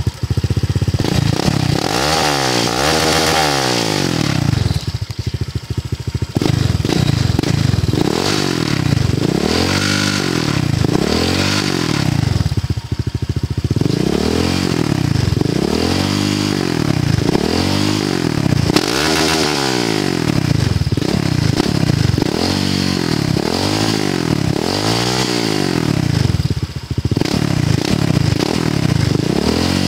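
Honda PCX150 scooter's single-cylinder four-stroke engine, fitted with an FMF aftermarket exhaust, revved repeatedly: the engine note climbs and falls back about once every second and a half.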